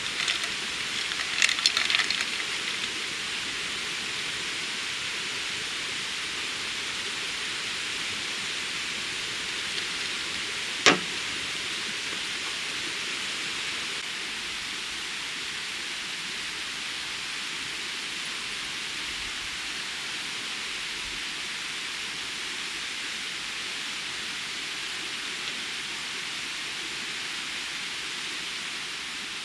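Steady, dense chorus of spring cicadas (haruzemi) forming an even high hiss, with a few sharp clicks near the start and one loud click about eleven seconds in.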